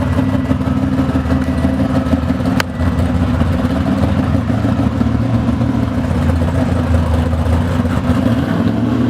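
Drag-built Chevy Nova's V8 engine running loud and steady, with one sharp click a little over two and a half seconds in.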